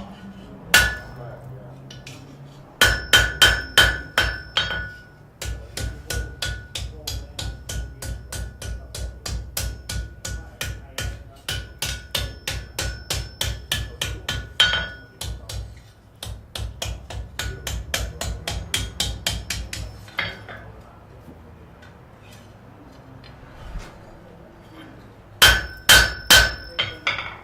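Blacksmith's hammer striking on an anvil with a ringing tone on each blow. A group of heavy blows comes first, then a long run of lighter, even taps at about three a second, a pause, and another group of heavy blows near the end.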